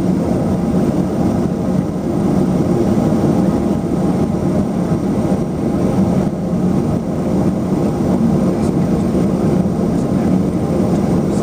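LET-410's twin turboprop engines and propellers running steadily, heard from inside the passenger cabin as a loud, even drone.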